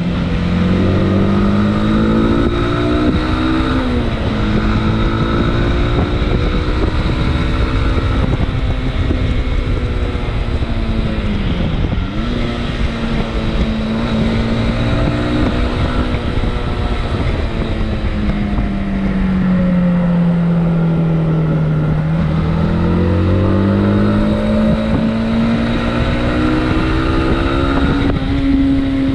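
Motorcycle engine running under way, its pitch rising and falling with the throttle. There are quick dips in engine speed about 4 and 12 seconds in, and a slower fall and rise near the end, over a steady rush of wind and road noise.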